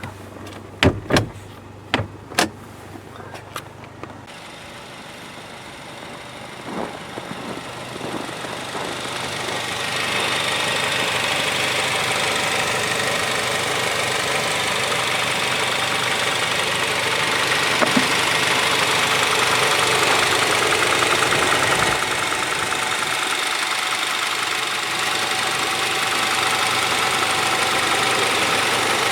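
A 2023 Tank 300 SUV with its engine running, heard from the cabin: a few sharp clicks in the first couple of seconds, then a steady rushing noise that swells between about six and ten seconds in and holds.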